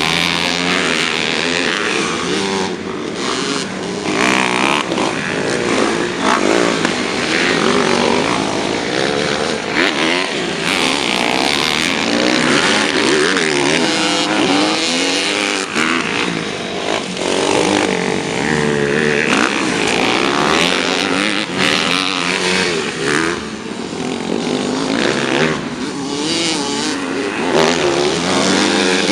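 Motocross dirt bikes racing, their engines revving up and down with overlapping rising and falling pitches.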